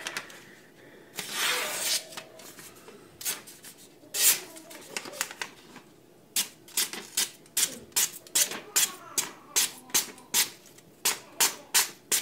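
Freshly sharpened blue-steel carbon knife slicing through paper, a series of short rasping cuts, scattered at first and then coming quickly, about two or three a second, from about halfway through.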